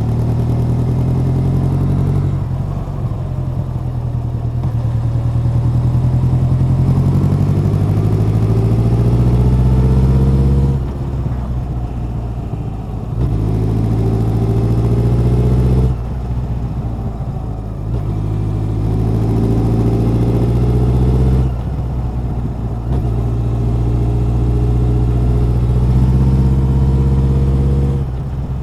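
Honda CB1100's air-cooled inline-four engine and exhaust under way on a motorcycle. The engine note climbs steadily under throttle, then falls away abruptly, four times over: about 11 seconds in, 16 seconds in, 21 seconds in and near the end.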